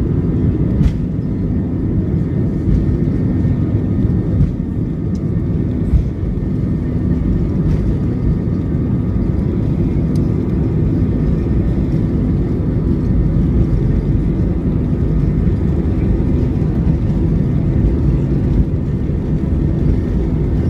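Airbus A320's jet engines: a steady, loud low rumble with faint steady tones above it, unchanging throughout.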